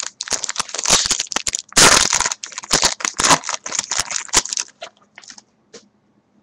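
Trading card pack wrapper being torn open and crumpled, a dense crinkling and crackling that is loudest about two seconds in and dies away to a few small clicks.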